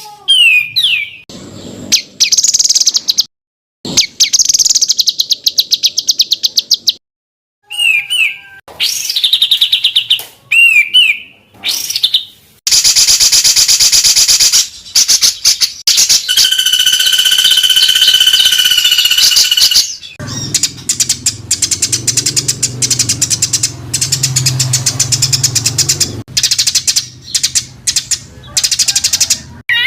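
Songbird recordings spliced one after another: fast, harsh chattering bursts and whistled phrases that cut off abruptly between clips, with two brief gaps early in the sequence. These are the dense rapid-fire 'tembakan' songs used as masteran to tutor cage birds such as white-rumped shamas, greater green leafbirds and oriental magpie-robins.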